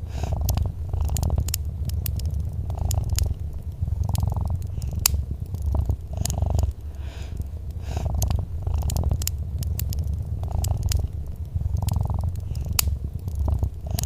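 Domestic cat purring in a continuous low rumble that swells and eases with each breath. Sharp pops and crackles from a wood fire are scattered through it.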